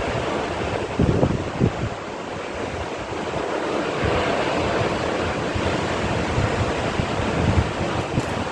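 Rough sea surging and washing under strong wind, with gusts buffeting the microphone about a second in.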